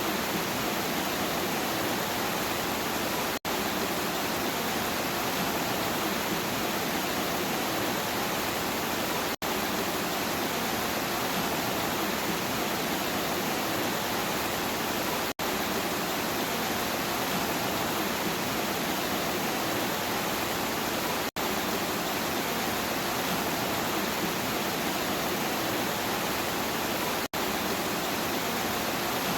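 Steady heavy rain, an even hiss with no thunder, cutting out for an instant about every six seconds.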